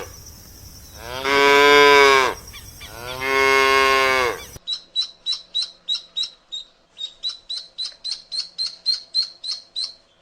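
A cow mooing: two long, even moos, with the end of a third at the start. About halfway through they cut off abruptly and a rapid run of short, high chirps follows, about four a second.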